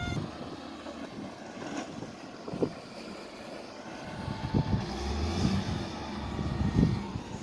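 Heavy vehicle engine running, with scattered knocks and clanks; a low rumble grows louder about four to five seconds in.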